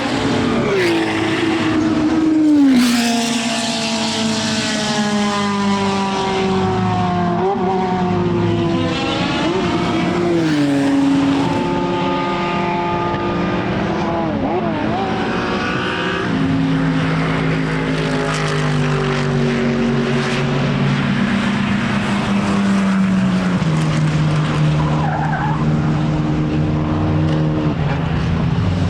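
A racing car's engine at speed on the circuit. It passes close in the first few seconds, peaking in loudness as its pitch falls, and is then heard further round the lap, its note stepping down at several gear changes.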